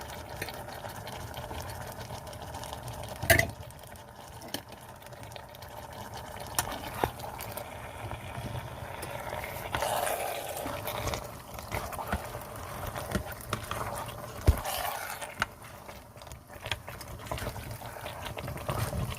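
Curried chicken with potatoes and carrots simmering and bubbling in an electric pressure cooker on its sauté setting, just after a wet seasoning blend has been poured over it. A few sharp knocks sound over the steady bubbling, the loudest about three seconds in and again near the middle.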